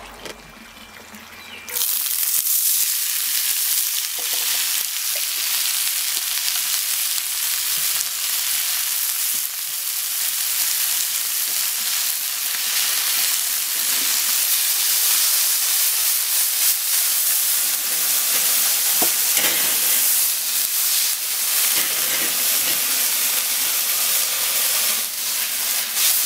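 Drained canned corn hitting hot coconut oil in a cast iron skillet over charcoal: a sudden loud sizzle about two seconds in that keeps frying steadily as the kernels scorch on high heat.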